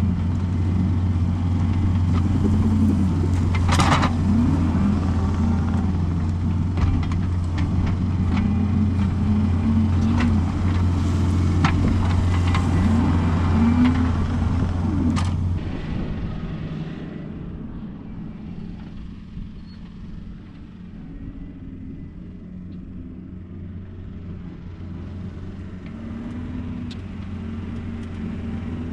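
John Deere 333E skid steer's diesel engine working under load, its note rising and falling as it pushes dirt, with a couple of sharp clanks. About halfway through it drops to a much quieter, steady run.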